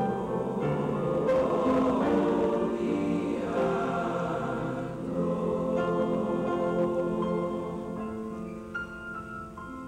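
Junior high school choir singing, many voices holding long chords together, growing softer near the end.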